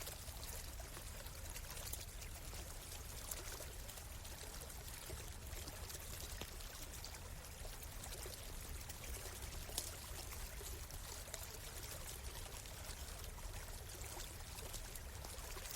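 Stream water flowing steadily, with an occasional sharp crackle from a campfire.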